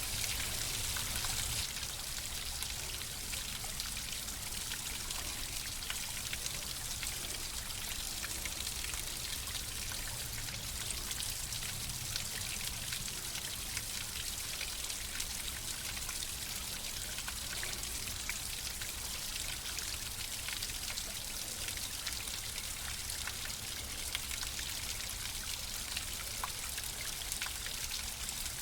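Flowing water: a steady stream or trickle with many small splashes and drips over a continuous rush.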